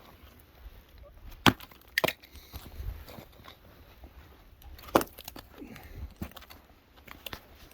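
A few sharp wooden knocks and cracks, the loudest about one and a half, two and five seconds in, with lighter knocks between.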